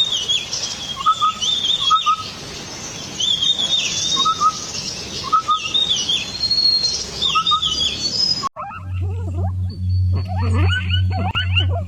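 A bird calling over and over, a short two-part call repeated about once a second. About eight seconds in the sound cuts abruptly to a different recording: rapid, overlapping chirps that fall in pitch, over a steady low hum.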